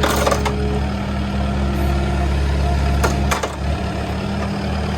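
Diesel engine of a Kubota KX057-4 compact excavator running steadily. Two sharp knocks come at the start and about three seconds in, and the engine note drops slightly just after the second.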